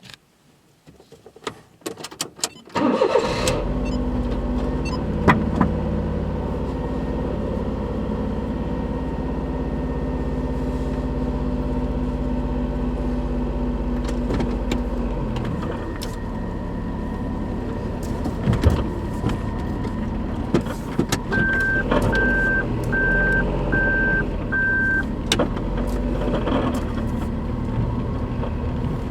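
Daihatsu Move Custom L175S three-cylinder engine cranked and started after a few clicks about three seconds in, then idling steadily, with a few sharp knocks through the idle. The noisy, knocking idle is what the owner puts down to a worn, torn engine-mount bushing. Five short beeps sound near the end.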